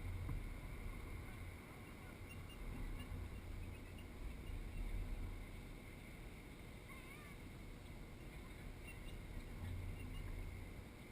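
Uneven low rumble of wind buffeting a bike-mounted GoPro's microphone, swelling and easing, over a faint steady hiss. A faint high chirp comes about seven seconds in.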